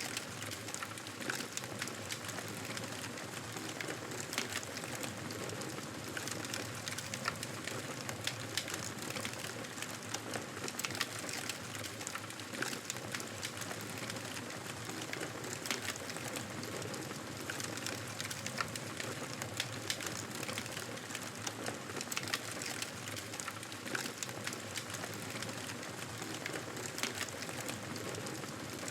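Wood fire burning in a fireplace, crackling steadily with many small irregular pops over a low hiss of flames.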